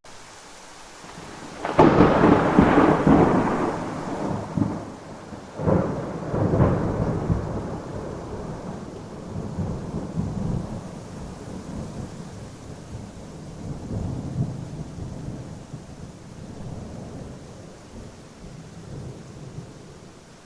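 Thunder over a steady hiss of rain: a sharp crack about two seconds in rolls into heavy rumbling, a second crack follows a few seconds later, and the low rumble trails off slowly.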